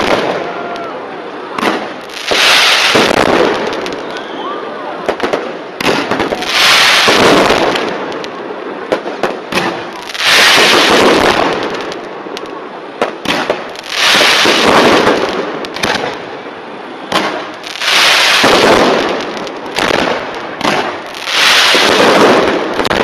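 Aerial fireworks bursting overhead: a loud burst about every four seconds, with scattered pops and crackling between them.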